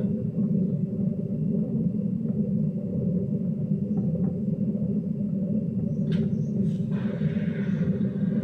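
Hoover DYNS 6105 DZ washing machine drum spinning steadily at about 300 rpm on a spin-only cycle: a steady low rumble from a machine with worn bearings. A couple of brief knocks come about six and seven seconds in, followed by a rushing noise.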